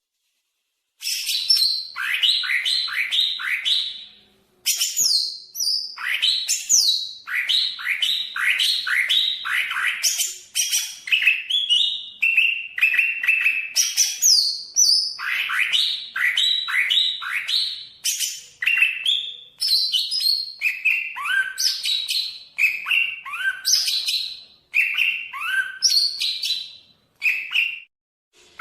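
A cucak ijo (greater green leafbird) singing a long, varied, loud song of rapid, sharply falling whistled notes in quick series, with a brief pause about four seconds in.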